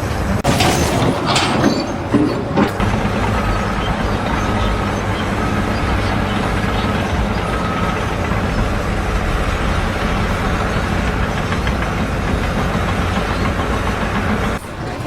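Steady low rumble of a large engine running, with a faint beep repeating about once a second for a few seconds in the middle.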